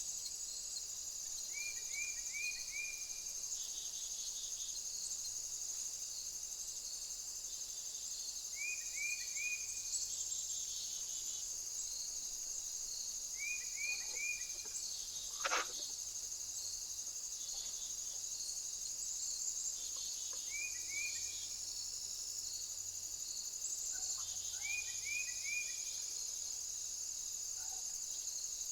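Insects, crickets, trilling steadily and high-pitched, with a short run of three or four quick chirps repeating about every five seconds and a single sharp click about halfway through.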